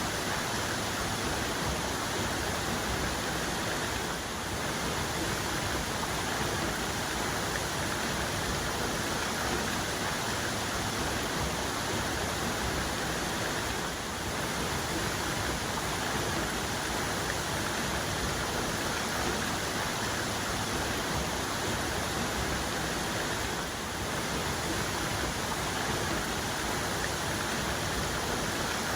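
Waterfall's main cascade pouring steadily: a dense, even rush of falling water.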